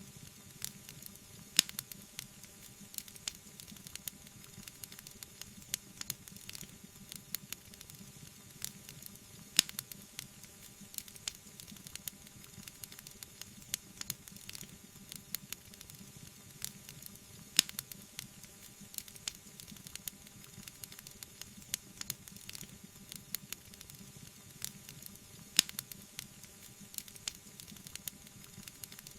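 Wood fire crackling and hissing, with many small snaps and four sharp, louder pops spaced about eight seconds apart.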